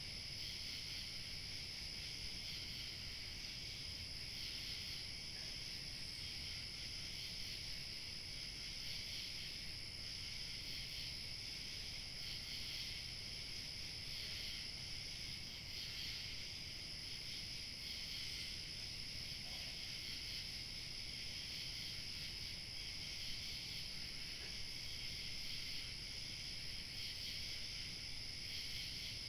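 Crickets chirping in a steady, dense evening chorus, with a thin high steady tone above it and a faint low rumble of light wind underneath.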